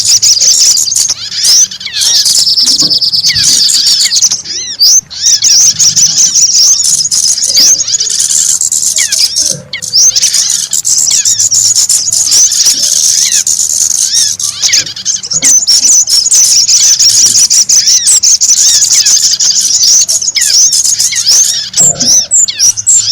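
Many small birds chirping fast and high-pitched in a dense, unbroken chorus: a recorded bird-lure call for attracting small wild birds.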